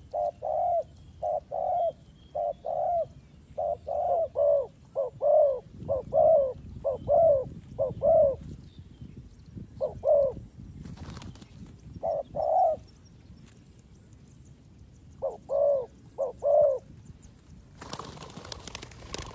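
Spotted dove cooing: phrases of short, repeated coos with pauses between them, the calls stopping about three seconds before the end. A brief scratchy noise comes about eleven seconds in, and a steady rush of noise takes over near the end.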